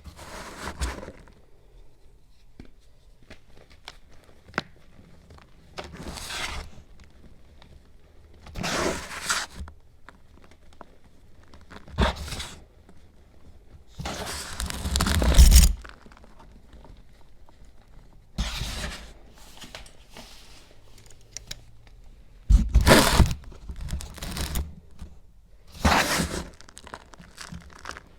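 Crunching and crackling in about nine separate bursts of a second or so, with quiet gaps between them; the longest and loudest comes about halfway through.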